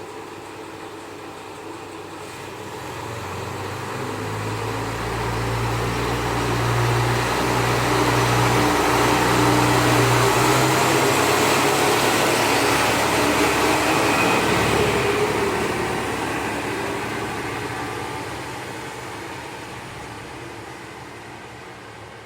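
MRT300 diesel railcar pulling away from a station: its diesel engine working under load with a steady low note that drops about ten seconds in, along with wheel and rail noise. The sound grows louder as the railcar passes, peaks around the middle, then fades as it moves off.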